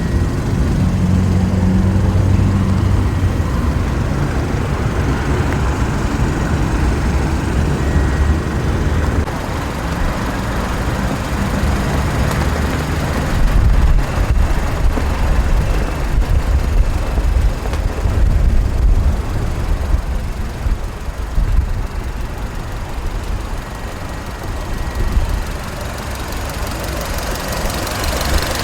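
A vehicle engine running at idle: a steady low rumble that rises and falls in strength.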